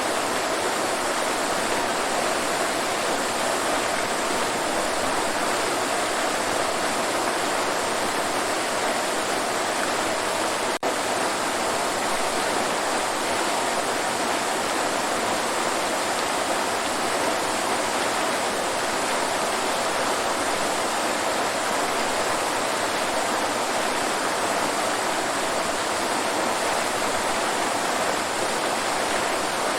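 Waterfall: steady rushing, splashing water, unbroken except for a momentary dip about eleven seconds in.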